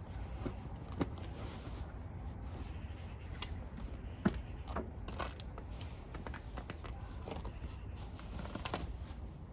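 Scattered small clicks and taps of hands handling tools and parts, with a sharper knock about four seconds in, over a steady low rumble.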